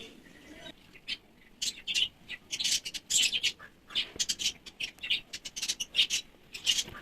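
Nestling songbirds begging for food, giving a rapid string of short, high-pitched chirps and squawks.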